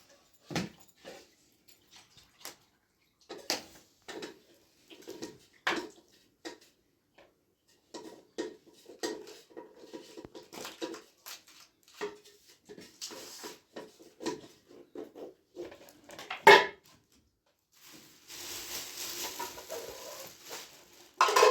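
Dishes and metal utensils clinking and clattering as they are handled, in irregular knocks with brief ringing; a steady rushing hiss sets in near the end, followed by a louder clatter.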